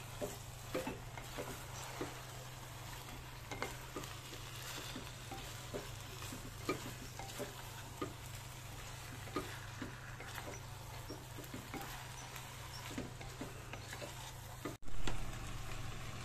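Duck pieces frying in oil and ground spice paste in a clay pot, sizzling steadily while a wooden spatula stirs them, with irregular scrapes and knocks of the spatula against the pot.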